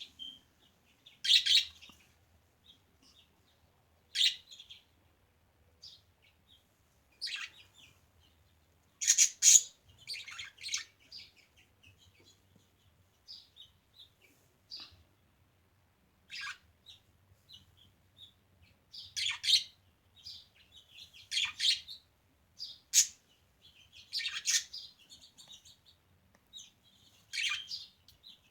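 Pet budgerigars chirping: short, high calls at irregular intervals of one to three seconds, with quiet gaps between.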